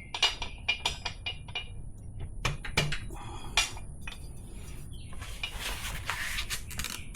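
Metal tools and motorcycle rear-wheel hardware clinking and tapping: a string of light, sharp, slightly ringing knocks at irregular intervals, with a rougher scraping and rubbing near the end.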